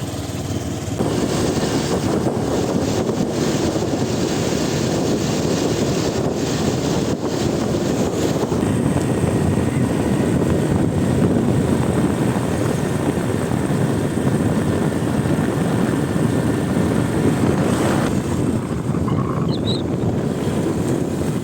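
Wind buffeting the microphone on a moving motorbike, with engine and road noise underneath as a steady rush.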